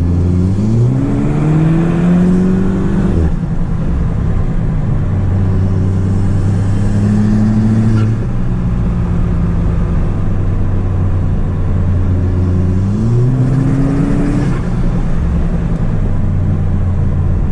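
Audi S3 8P's turbocharged 2.0 TFSI four-cylinder, tuned to 300 CV with an aftermarket downpipe, accelerating twice, its pitch rising through each pull and dropping suddenly at the end of it. Between the pulls it runs at a steady pitch.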